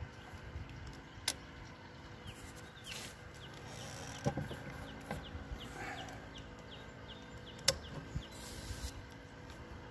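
A bird chirping a quick series of short, falling notes over a low background rumble. Two sharp knocks sound a few seconds apart, one about a second in and one later on.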